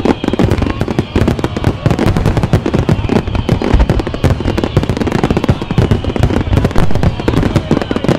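Aerial firework shells bursting in a dense, continuous barrage, many bangs overlapping with no gap between them.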